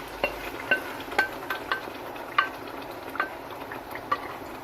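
A metal spoon clinks and knocks against the cookware about eight times at irregular intervals, some strikes ringing briefly, as marinated chicken is tipped into the pot. A steady sizzle of the frying masala runs underneath.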